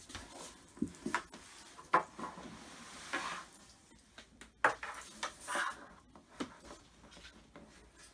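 Irregular knocks, clicks and scuffs of a flat-pack wooden cupboard being handled and turned during assembly, with two sharper knocks about two seconds in and near the middle.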